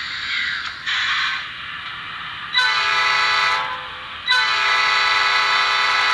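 HO-scale Bowser MLW M630 model locomotive's LokSound V5 sound decoder playing through its small speaker: a hissing diesel-engine sound, then two long blasts of the diesel air horn, the second still sounding at the end.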